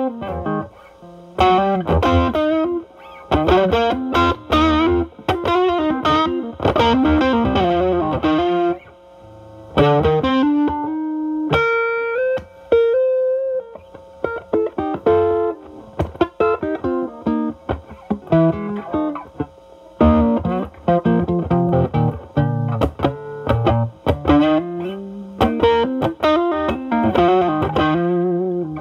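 Electric guitar, a Stratocaster, played through a Ceriatone Centura Klon-clone overdrive into a Marshall Valvestate drive channel, the pedal's gain at 10 and the tone cleaned up from the guitar's volume. Bluesy improvised phrases of short chords and single-note runs with brief pauses, and one sustained note near the middle.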